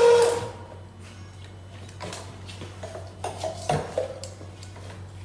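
Stair-cleaning machine's motor dying away about half a second in as it is switched off, followed by a low steady hum and scattered light clicks and clinks of the machine being handled.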